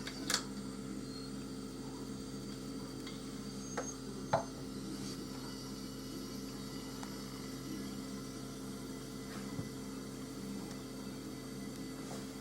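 Steady electrical hum, with a few light clicks and taps: one just after the start and two around four seconds in.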